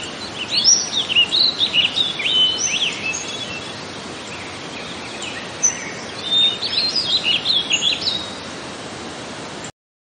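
Small birds chirping and twittering in quick flurries, busiest in the first few seconds and again past the middle, over a steady even hiss. The sound cuts off suddenly near the end.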